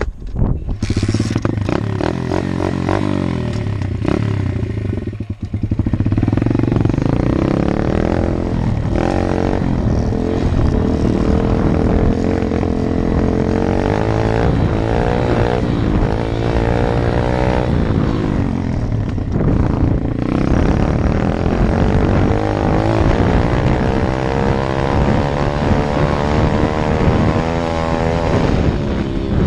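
125 cc Apollo dirt bike engine running, starting abruptly at the beginning and, after a brief dip about five seconds in, revving up and down again and again.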